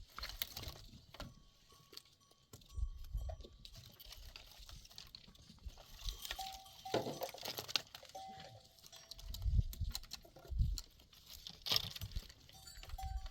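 Livestock moving about, with short bell-like ringing notes, clicks and knocks, and one brief animal call about seven seconds in.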